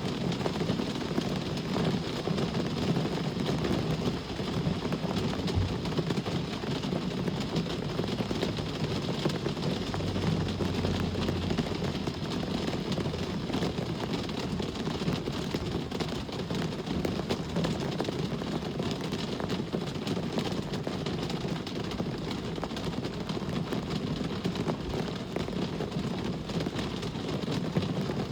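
Steady rain with road traffic: a continuous hiss of rain over a low, even rumble of vehicles.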